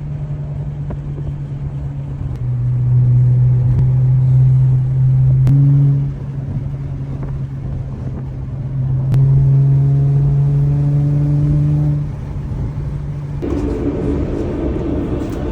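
Car engine running at a steady pitch, growing louder for a few seconds twice, about two and a half seconds in and again about nine seconds in.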